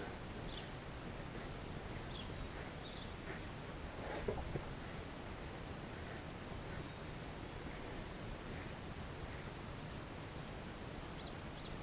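Quiet steady background noise with a cricket chirping evenly, about four chirps a second; a faint rustle about four seconds in.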